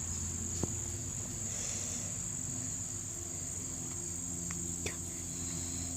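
A steady, high-pitched chorus of insects shrilling without a break, over a low steady hum.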